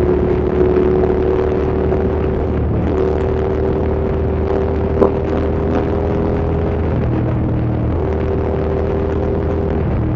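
Hyosung GT650's V-twin engine running steadily under way, its note stepping up and down in pitch a few times as the throttle changes. A single sharp click about halfway through.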